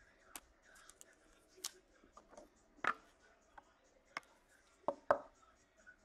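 Trading cards being handled at a table: a scatter of light clicks and taps, with faint sliding and rustling between them. The loudest clicks come about three seconds in and twice near five seconds in.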